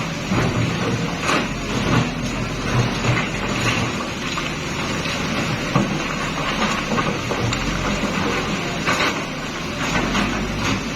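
Komatsu heavy earthmoving machine working, its diesel engine running steadily under irregular knocks and clanks.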